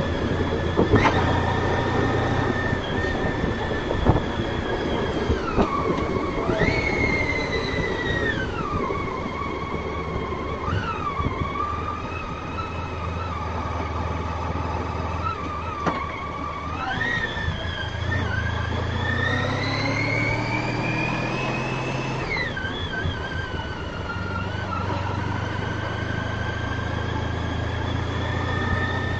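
Honda ST1300 Pan European's V4 engine running under way, a low drone with a whine that glides up and down as the bike speeds up and slows. The pitch jumps up sharply a couple of times and climbs steadily for a few seconds before falling away.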